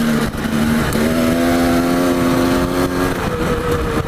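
Dirt bike engine running under throttle while riding. Its pitch climbs slightly through the middle and eases off about three seconds in. Wind and ground rumble sound on the helmet camera microphone.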